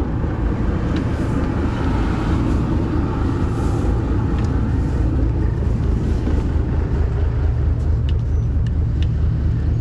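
Fishing boat's engine running steadily, a continuous low rumble with a few faint clicks over it.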